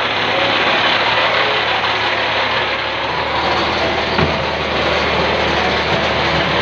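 A boat engine running steadily: a low hum under a dense wash of noise, with one brief knock about four seconds in.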